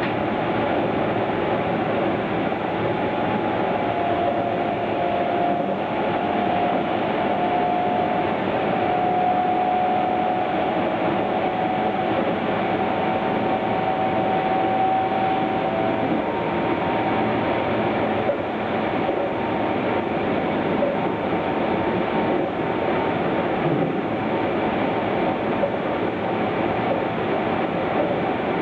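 Keihan 9000 series electric train running, heard from inside the carriage: a steady rumble of wheels on rail. A whine rises in pitch from about four seconds in and fades out near the middle.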